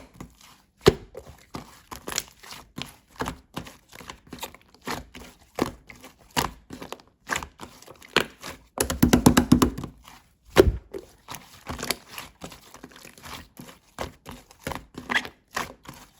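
Slime being squeezed and pressed by hand, making a string of irregular sticky clicks and pops, with a quick run of rapid pops about nine seconds in.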